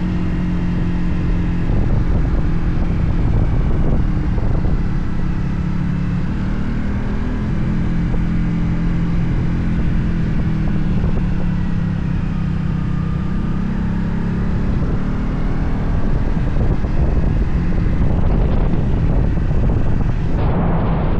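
Kymco Venox 250 V-twin motorcycle engine running under way, its note drifting a little up and down with the throttle, mixed with wind rushing over the microphone.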